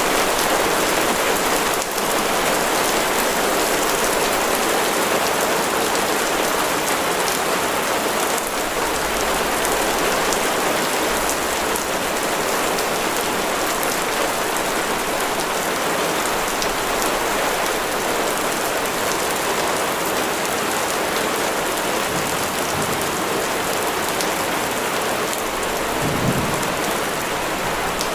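Heavy rain falling steadily, a dense patter of drops on a surface. A short low rumble comes near the end.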